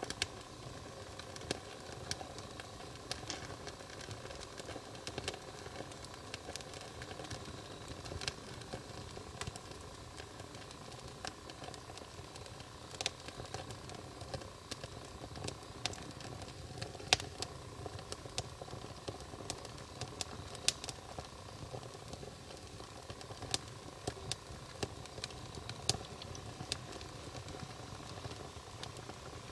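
Wood fire burning, with sharp irregular crackles and pops over a steady low rush of flame.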